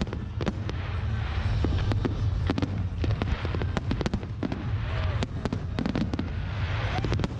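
Fireworks going off: a rapid, irregular string of sharp bangs and crackles over a steady low rumble.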